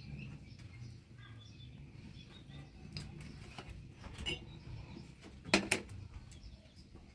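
Scattered short bird chirps over a low steady rumble, with one sharp knock about five and a half seconds in.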